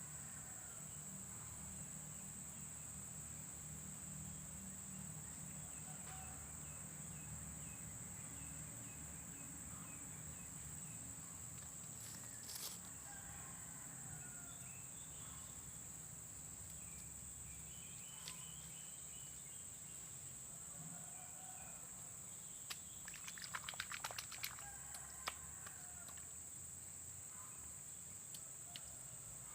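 Rural outdoor ambience: a steady high-pitched drone of insects with faint scattered bird chirps. About two thirds of the way through comes a short run of clicks and rustling.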